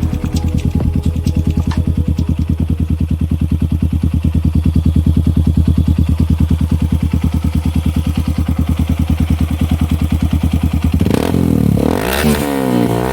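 Motorcycle fitted with a Norifumi RV1 aftermarket exhaust idling with a steady, rapid pulse, then revved in several quick throttle blips for the last couple of seconds.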